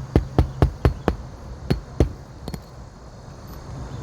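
Hammer driving roofing nails through an asphalt shingle ridge cap: a quick run of about six strikes in the first second, then three slower strikes, the last about two and a half seconds in.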